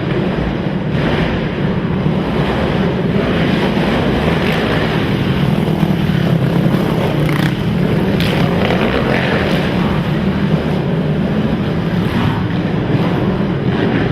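Racing quad (ATV) engines running steadily at a loud, even level, with a dense low hum.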